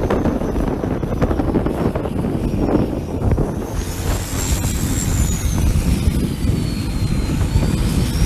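Common-rail turbodiesel engine of a Thai longtail racing boat running hard. A high turbo whine sweeps slowly down, rises about halfway through, dips again and climbs near the end.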